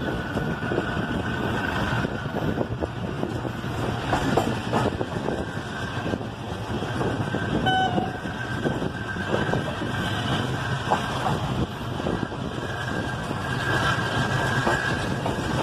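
Passenger train running, heard from inside a moving coach: wheels rumbling and clattering over the rails, with a short high tone about eight seconds in.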